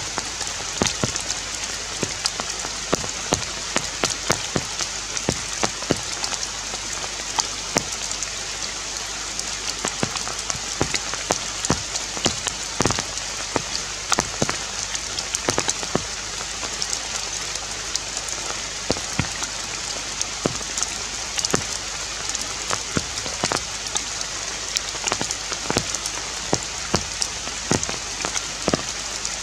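Patter of rain on forest leaves: a steady high hiss broken by many irregular sharp ticks of drops striking.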